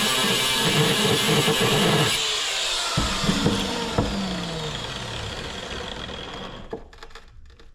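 Angle grinder cutting into a compressor's thick steel shell, then let off about two seconds in and spinning down, its pitch falling as it fades. Two sharp knocks come about three and four seconds in.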